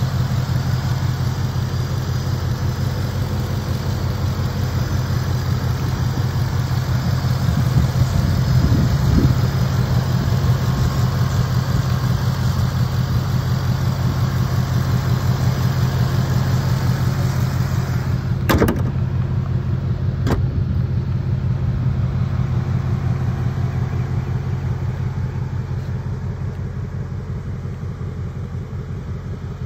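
2024 Ford Mustang GT's 5.0-litre Coyote V8 idling steadily. About two-thirds of the way through, two sharp knocks, the hood being shut, after which the engine sounds duller, and it grows fainter near the end.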